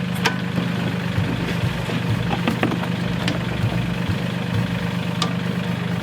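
Tractor engine running steadily, with a few sharp clicks and knocks scattered through.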